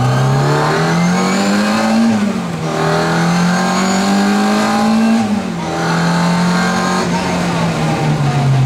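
Classic Mini Cooper S rally car's A-series four-cylinder engine heard from inside the cabin, accelerating hard with the revs climbing. The revs drop sharply at an upshift about two seconds in and again about five seconds in, then hold fairly steady.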